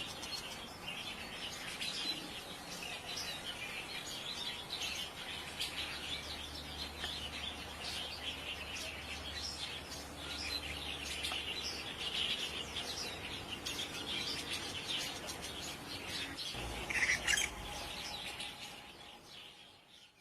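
A shrike singing a rapid, continuous string of short high notes, louder for a moment about three-quarters of the way through, fading out near the end.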